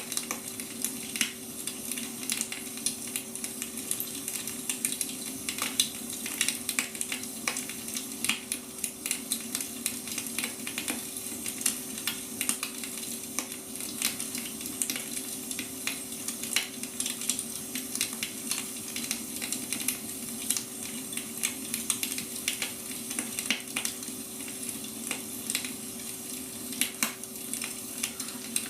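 Wood fire burning, crackling and popping irregularly, over a faint steady hum.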